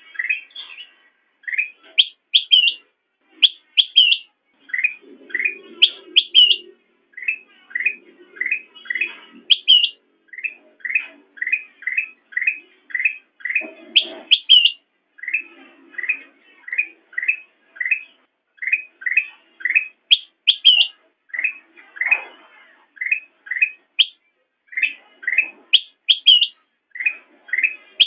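Kutilang emas (a bulbul) singing: a long run of short chirps about twice a second, broken every few seconds by higher, downward-sweeping whistled notes.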